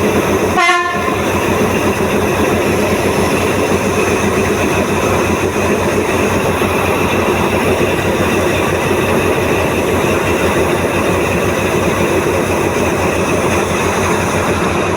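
Diesel locomotive or train running loud and steady close by, with a brief pitched blip under a second in.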